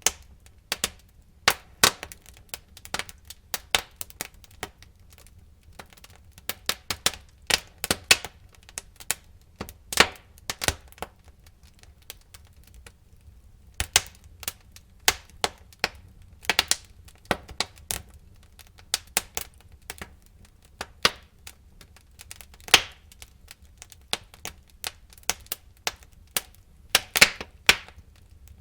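Wood fire burning in a fireplace: irregular sharp crackles and pops of burning logs over a low, soft rumble of flame.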